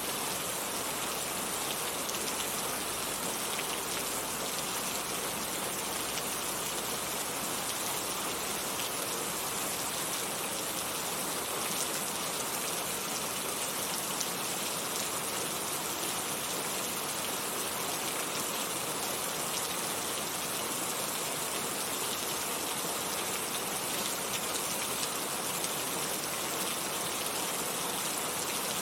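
Heavy rain falling steadily, a dense, even hiss of many drops with fine pattering on surfaces.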